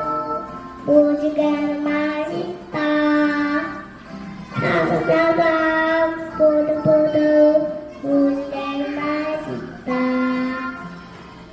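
A young child singing a children's song in short phrases of held notes, the singing ending near the end.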